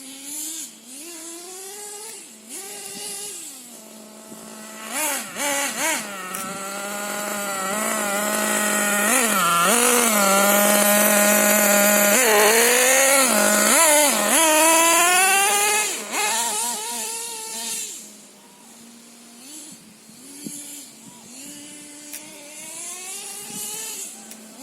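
LRP ZR.28 nitro engine of a radio-controlled monster truck idling with short blips of the throttle, then revving up about five seconds in and holding a high, loud pitch for several seconds before dropping back to idle, with more short blips near the end.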